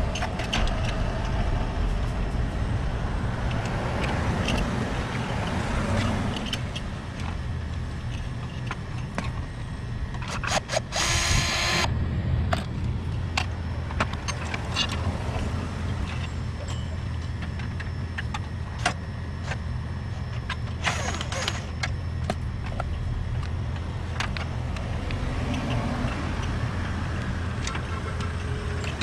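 A steady low machine hum, with scattered clicks and knocks of parts and tools being handled and a short hiss about eleven seconds in.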